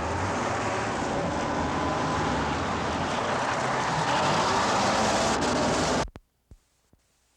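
Road traffic: a motor vehicle's engine and tyres on a busy street, starting abruptly and cutting off after about six seconds, followed by a few faint clicks.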